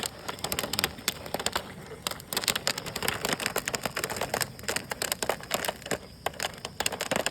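Jiffy Pop popcorn kernels popping fast and irregularly inside the foil pan as it cooks over the flame.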